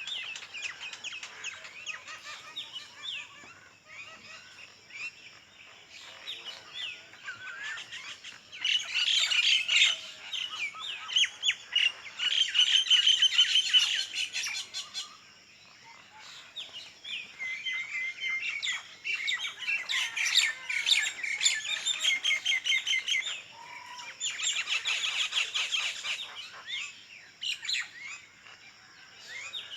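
Several birds chirping and singing together, with louder stretches of fast, rapidly repeated chirps coming and going.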